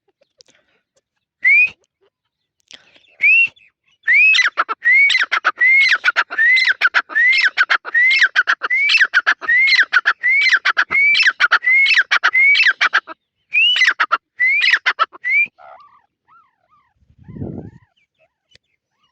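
Francolin (teetar) calling loudly: two single notes, then a fast run of repeated rising-and-falling shrill notes, about one and a half a second, that stops abruptly. A brief low rumble follows near the end.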